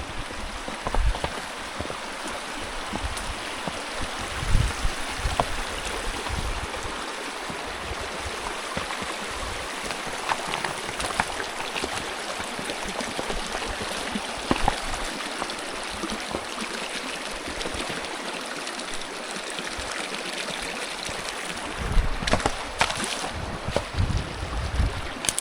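Creek water running in a steady rush, with a few low thumps near the start and again near the end.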